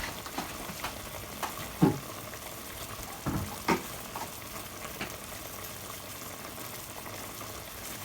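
Pan of chicken simmering in soy sauce and water, with a steady bubbling sizzle. A few sharp knocks fall in the first half, the loudest about two seconds in and just after three and a half seconds.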